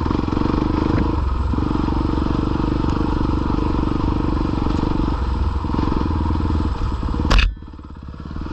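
A 450 four-stroke dirt bike engine chugging steadily at low speed as it crawls over logs and mud. Near the end comes a single sharp knock, and the engine sound drops off for about a second.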